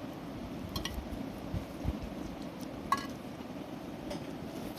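A few light clinks of chopsticks and tableware during a meal, the clearest a short ringing clink about three seconds in, over a steady low background noise.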